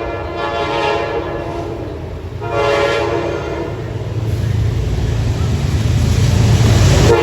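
Train horn sounding two long blasts of several tones at once, then the deep rumble of the approaching train growing steadily louder, with another horn blast beginning at the very end.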